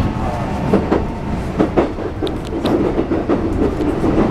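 Keikyu New 1000 series (1500 subseries) electric train running, heard from inside the passenger car: a steady rumble of wheels on rail with a few sharp clicks over rail joints.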